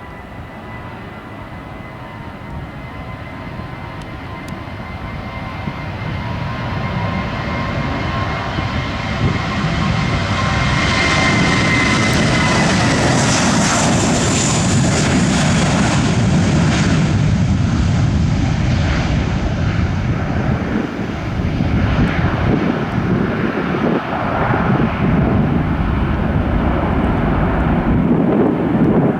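Airbus A321's twin IAE V2500 turbofan jet engines as the airliner passes: the engine whine grows louder, falls in pitch about twelve seconds in as it goes by, and gives way to a loud, rough low rumble.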